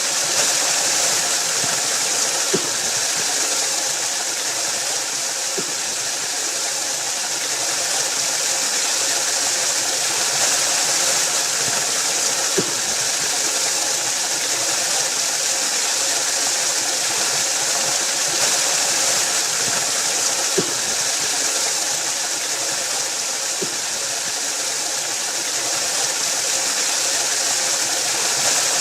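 Waterfall rushing in a steady, unbroken hiss, with a few brief low plops standing out now and then.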